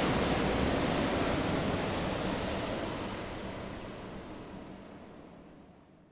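Airliner cabin noise, a steady rushing hiss and rumble, fading out gradually until it is silent near the end.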